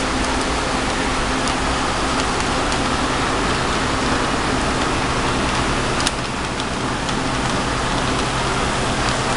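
Model train running on a layout: a steady rumble of wheels on track and motor, with a sharp click about six seconds in.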